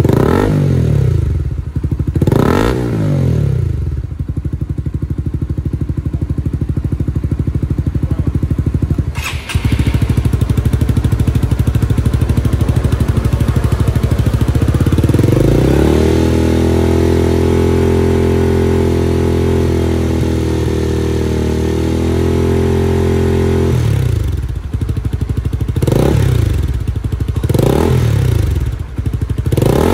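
Honda CB150R's single-cylinder four-stroke engine through an aftermarket hexagonal full exhaust system. It is blipped twice, settles to idle, then rises and holds at a steady higher engine speed for about eight seconds. It drops back and is revved in four quick blips near the end.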